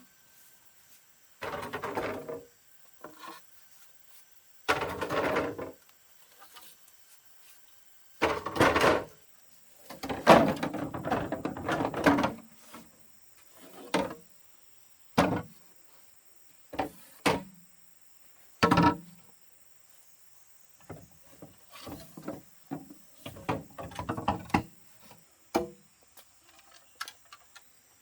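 Wood being handled and worked by hand: irregular knocks and scrapes, some short and sharp, some longer, with short pauses between.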